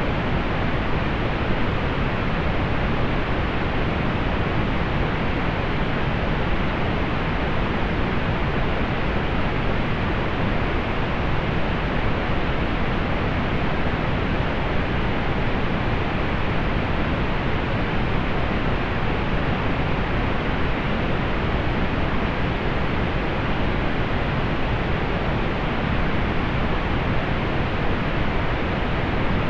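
Steady synthetic pink noise: an even, unchanging hiss, fuller in the low end and rolled off in the highs.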